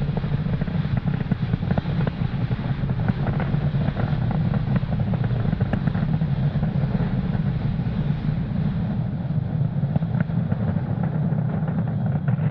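Falcon 9 first stage's nine Merlin engines during ascent: a steady, heavy rumble with crackle, growing slightly duller toward the end.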